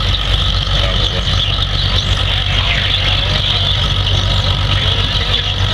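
McCormick W-6 tractor engine running steadily under load during a pull, exhausting through its muffler rather than a straight pipe.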